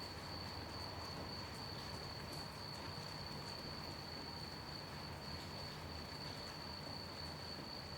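Crickets chirping in one continuous high trill that holds a steady pitch, over a soft, even hiss of light rain.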